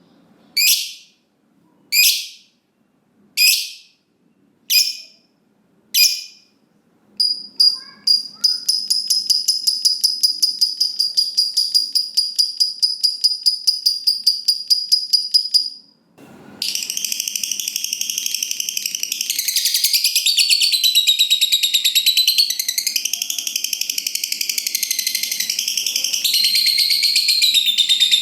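Lovebird calling: a run of about six sharp single chirps, then a long, fast, high-pitched trill, and after a brief break a dense warbling chatter — the long 'ngekek' song prized by lovebird keepers.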